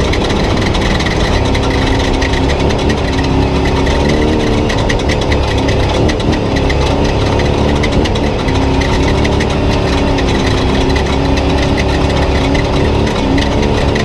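Spec Trophy Truck's engine running hard at race pace, heard from onboard. Its pitch rises and falls with the throttle over a constant heavy rumble.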